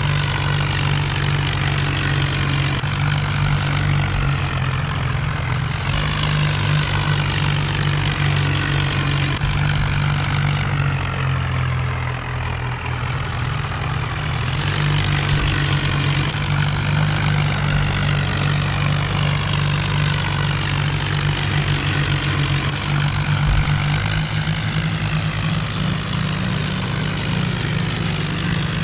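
Tractor diesel engine running steadily, with a hiss above it that briefly drops away about eleven seconds in.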